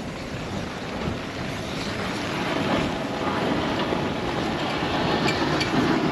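Strong blizzard wind buffeting the microphone as a steady, rumbling noise, with a few light clinks near the end.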